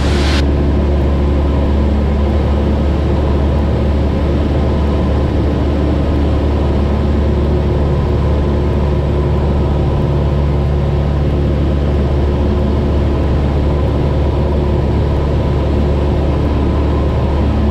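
Cessna 172's piston engine and propeller running steadily in cruise flight: a constant low drone.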